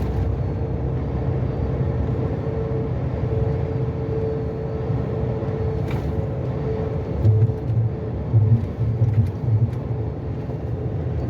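Steady engine and road rumble inside a moving truck's cab at highway speed, with a steady whine over it and a few low thumps about two-thirds of the way through.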